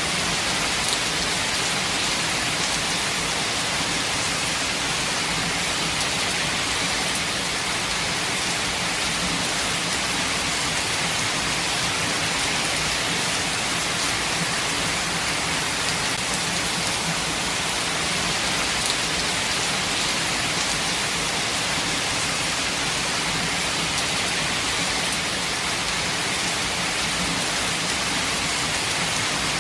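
Steady rain falling in a forest, an even dense hiss with a few faint drop ticks.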